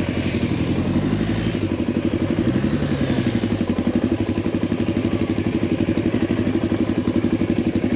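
Adventure motorcycle engine running at low revs with an even, rapid pulsing beat. In the first few seconds a second engine's pitch rises and falls.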